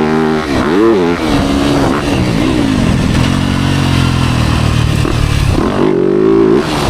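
Motocross dirt bike engine revving hard and easing off again and again as it is ridden, the pitch climbing and dropping with the throttle and gear changes, holding steadier for a couple of seconds mid-way before climbing again near the end.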